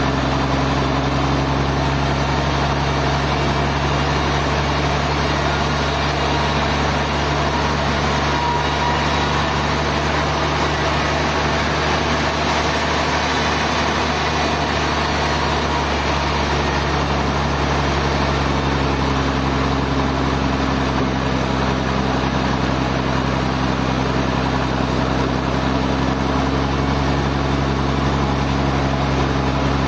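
Sawmill machinery running steadily: a constant low motor drone over a broad mechanical hiss, with no pauses.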